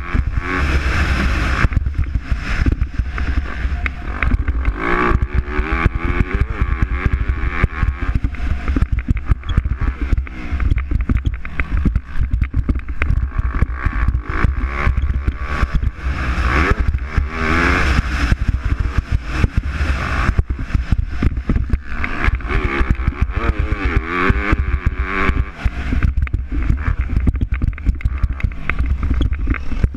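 MX2 motocross bikes racing, their engines revving up and falling back repeatedly as riders accelerate and shift, several machines overlapping in a continuous loud rumble.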